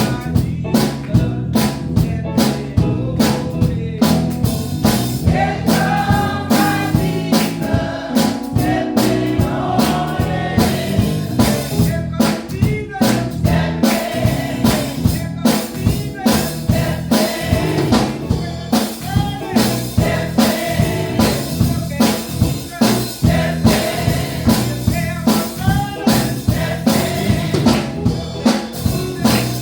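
Gospel music: voices singing together over a drum kit keeping a steady beat.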